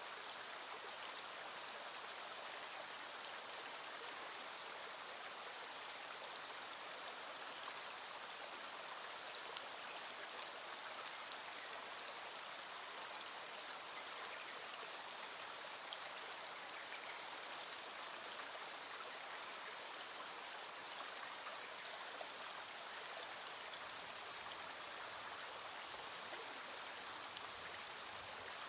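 Small stream flowing steadily, with raindrops pattering faintly over it.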